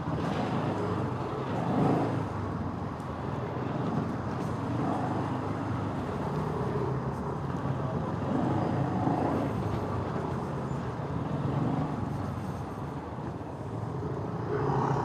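Motorcycle running at road speed, its engine note steady under heavy wind and road noise, swelling and easing every few seconds.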